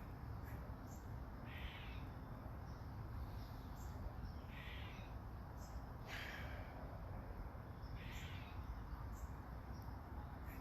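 A bird giving short calls about four times, one every second and a half to two seconds, over a steady low background rumble.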